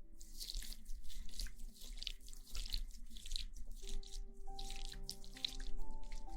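Hands scrubbing wet, lathered hair, an irregular wet crackling, over soft background music with held notes.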